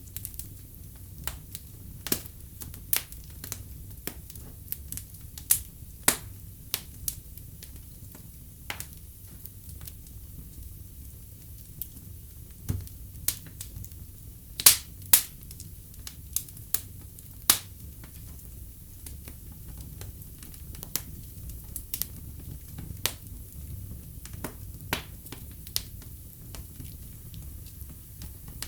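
Wood fire in a fireplace crackling: irregular sharp pops over a low steady rumble, with the loudest two pops coming close together about halfway through.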